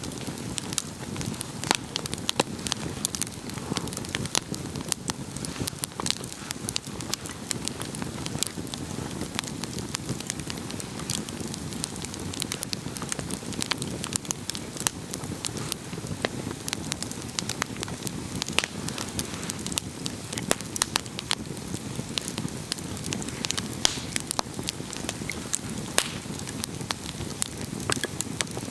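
Wood campfire crackling: frequent irregular sharp pops and snaps over a steady low rush of burning flames.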